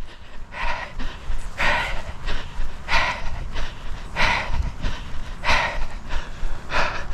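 A person breathing hard from running exertion, panting in and out in a steady rhythm close to the microphone.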